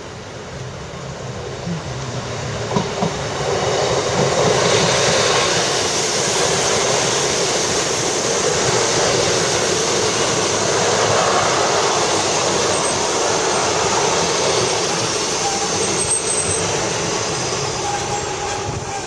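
Diesel multiple-unit passenger train passing close by on the line. It builds up over the first few seconds with a few sharp wheel clicks, runs steadily past for about ten seconds, then fades near the end.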